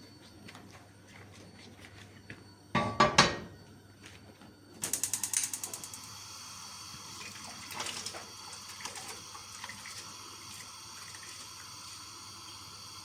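A short loud clatter, then a gas stove's igniter clicking rapidly, about ten clicks in a second, until the burner catches and settles into a steady hiss of flame.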